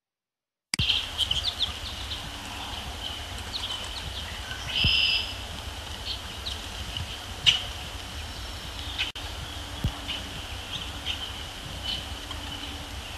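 Outdoor pond soundscape: birds chirping and calling in short notes over a steady high-pitched background drone and a low rumble, with a few sharp ticks. The sound cuts in abruptly just under a second in, and the loudest call comes about halfway through.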